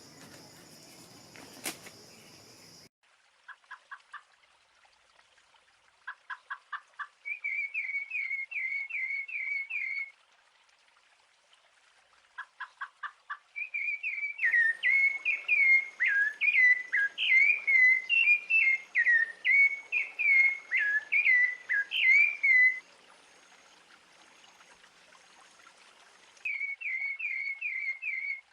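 A songbird singing in runs of quick repeated chirps, with short bursts of rapid ticking between them and a louder, more varied stretch of song in the middle.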